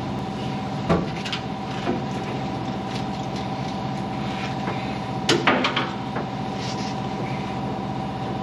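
Steady mechanical hum of a running shop machine, with a few short knocks and clatters of tools being handled, the loudest about a second in and just past five seconds in.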